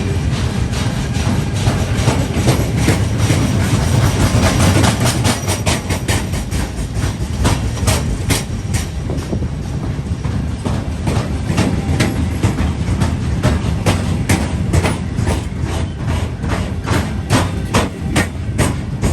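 A train running through close by, its wheels clacking over rail joints and points in quick, irregular clusters above the steady noise of the wheels on the rails.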